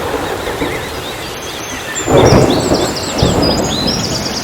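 Gusty storm wind rumbling on the microphone, with a strong gust about two seconds in. Small birds chirp high above it, faster toward the end.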